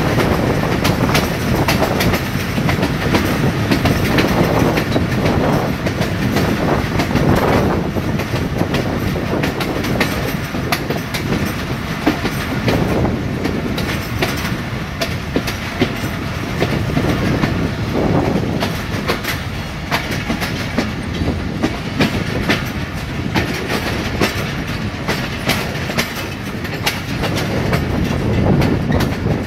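A passenger train running on jointed branch-line track, its wheels clicking and knocking over the rail joints under a steady rumble, with irregular jolts as the carriage shakes.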